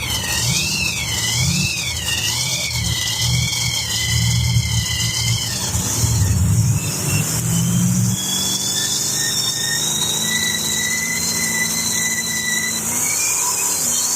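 Monster truck engine rumbling with a high wavering squeal over it for the first five seconds or so. After about eight seconds the rumble drops away and a steady high whine holds on, rising slightly in pitch.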